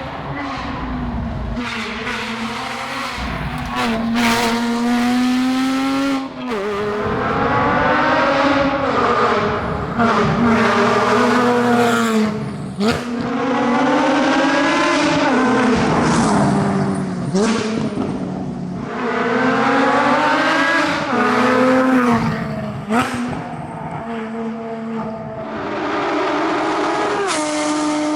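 Porsche Cayman GT4's 3.8-litre naturally aspirated flat-six under hard acceleration on a rally stage. The revs climb again and again, with a sharp drop at each gear change, easing off in places for corners.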